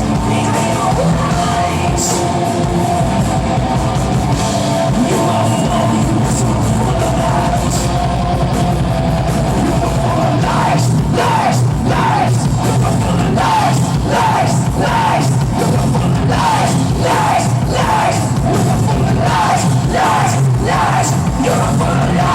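Live rock band playing loud, heavy rock with yelled singing; about halfway through, a repeated sliding figure comes in, roughly twice a second.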